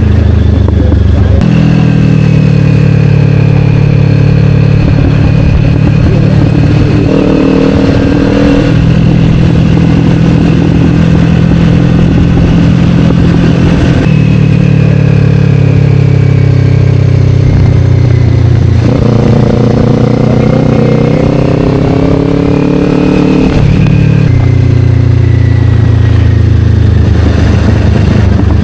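Kawasaki Ninja 500 parallel-twin engine running through an Akrapovic slip-on exhaust while riding, loud and steady. The engine note shifts in steps several times as the revs change.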